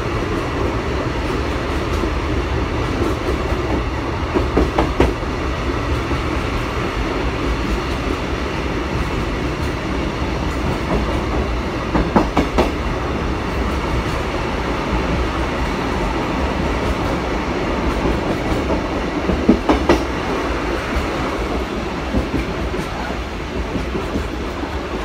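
Steam-hauled passenger train running through a tunnel, heard from aboard: a steady rumble and hiss, with a short cluster of wheel clicks over rail joints about every seven to eight seconds.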